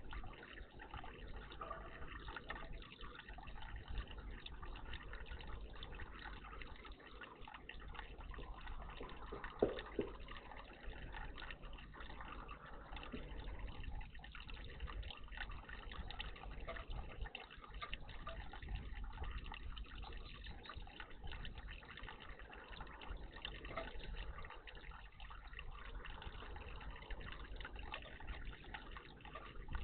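Water trickling and splashing steadily in a garden birdbath, with one short, sharper sound about ten seconds in.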